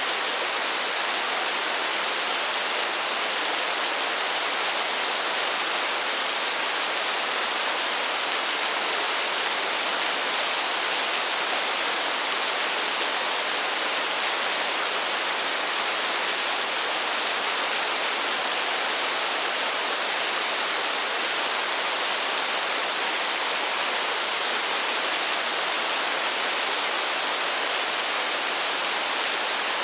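Steady rainfall: an even, unbroken hiss with no single drops standing out.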